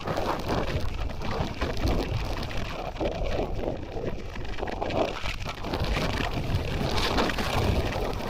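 Blizzard wind gusting and rushing across the microphone, a continuous noise that rises and falls.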